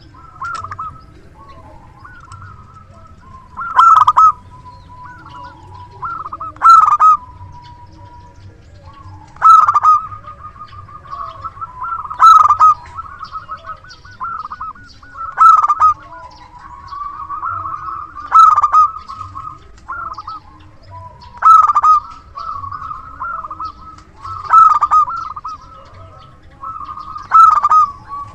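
Zebra dove (perkutut) singing: a loud cooing phrase about every three seconds, with softer rippling coos in between.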